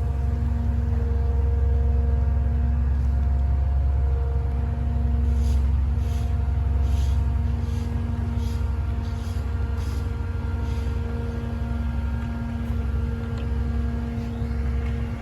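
Heavy work-truck diesel engine running steadily with a low rumble and a droning whine that fades out and returns a few times. A run of about nine short hissy pulses, roughly two a second, comes in the middle.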